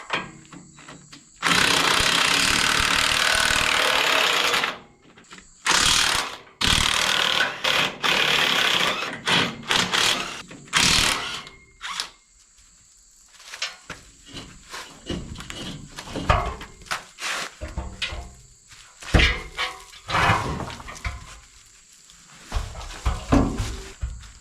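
Impact wrench running in bursts on a tractor's rear wheel nuts as the wheel is taken off to be flipped: first one long run of about three seconds, then many shorter runs mixed with sharp metal knocks.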